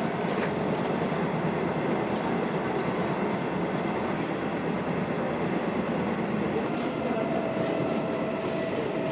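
Japanese commuter train running on the rails: a steady rumble of wheels and car noise, with a faint steady whine coming in near the end.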